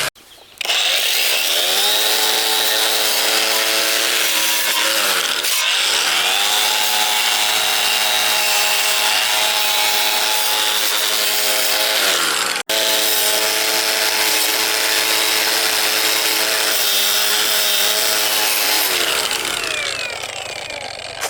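Handheld electric power tool running under load, its motor pitch sagging and recovering as it bears on the work, over a rasping scrape. It drops out for an instant about halfway through and tails off near the end.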